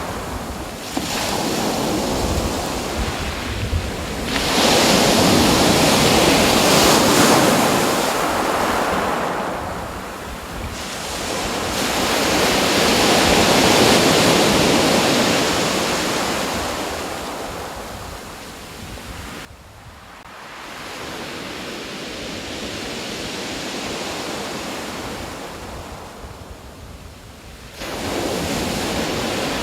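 Ocean surf washing in: a steady rushing noise that swells and fades in long surges, with a few abrupt jumps in level.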